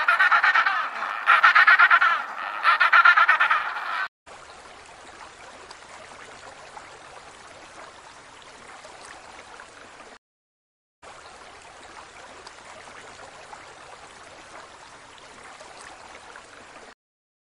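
A penguin braying in three loud, rapidly pulsing calls over the first four seconds. Then only a faint, steady hiss, with a short silence about ten seconds in.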